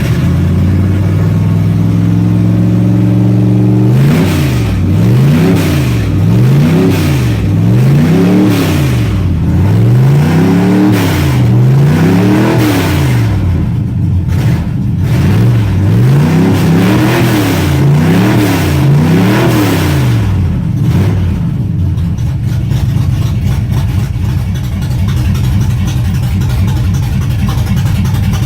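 1970 Chevelle's small-block Chevy V8 idling, then revved up and down about five times in quick succession, briefly settling, revved three more times, and dropping back to a steady idle shortly after a cold start.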